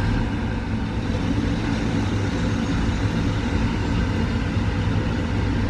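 Steady low rumble of a truck's engine and road noise heard inside the cab while driving.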